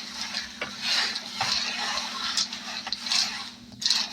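Dominoes being shuffled face down on a tabletop: a continuous clatter of tiles sliding and knocking against each other.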